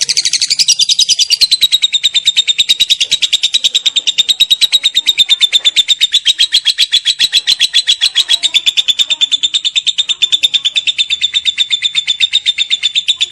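Lovebird's long 'ngekek' chatter: a loud, fast, unbroken run of shrill, evenly spaced notes that dips slightly in pitch in the first second, then holds steady.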